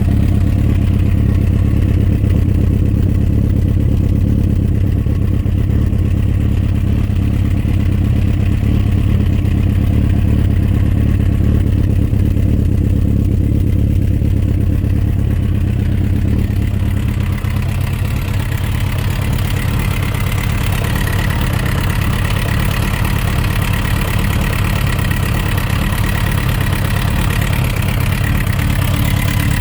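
Suzuki RF900 inline-four motorcycle engine running at idle with a knocking noise, the fault the video is about. The tone shifts slightly about seventeen seconds in.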